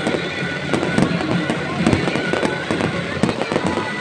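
Several fireworks firing at once in quick succession, a dense string of pops and crackles with no break.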